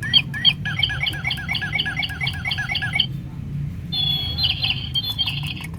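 Toy bird chirping: a fast, evenly spaced run of identical chirps, about four a second, for some three seconds, then after a short pause a second burst of trilling chirps.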